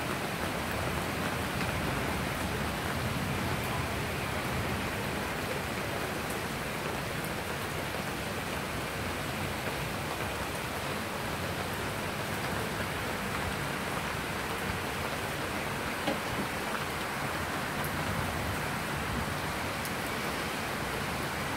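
Steady rain falling on a wet tiled terrace, an even hiss with no letup.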